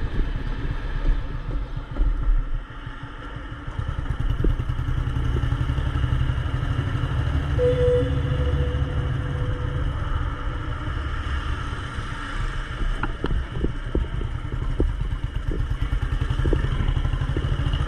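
Royal Enfield Bullet 350's single-cylinder four-stroke engine running while the bike is ridden, easing off briefly about three seconds in, then steady again. Scattered sharp clicks come in over the last few seconds.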